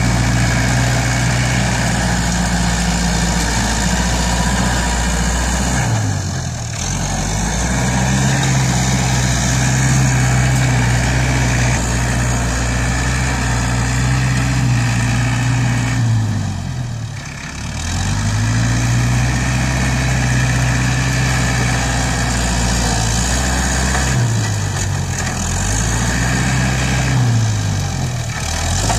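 ISEKI NT554 tractor's diesel engine running hard, its pitch sagging and climbing back several times as it takes up load while pushing soil, then recovers.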